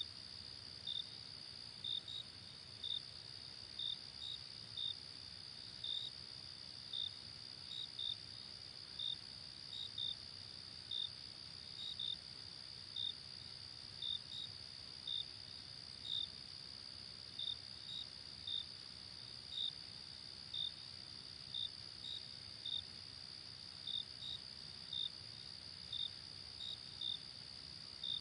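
Night insects calling: a steady high-pitched trill with short chirps about once a second, sometimes two close together, over a faint low rumble.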